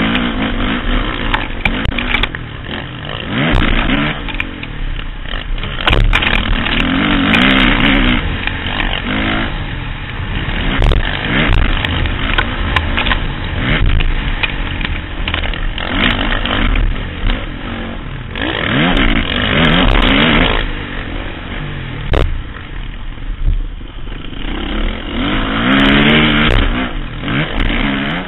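Motocross bike engine revving hard and easing off over and over as the rider works through the throttle and gears, its pitch climbing and falling every few seconds, with wind rush and the odd knock from the track, heard from a helmet-mounted camera.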